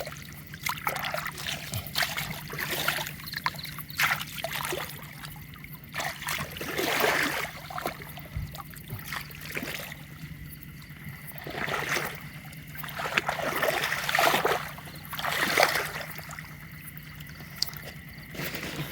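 Water splashing and sloshing in a shallow canal in repeated surges, with scattered small clicks between them.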